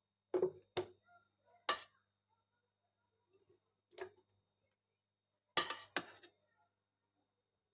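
Kitchenware clinking and knocking: about seven short, sharp strikes, three in the first two seconds, one about four seconds in, and a quick pair near six seconds.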